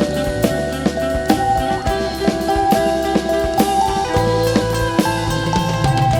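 Live band music: a drum kit keeps a steady beat under sustained bass and guitar notes.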